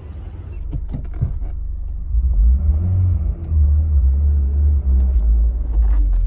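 Turbocharged Mitsubishi Lancer 2.0-litre four-cylinder engine running with a deep low rumble that gets louder about two seconds in.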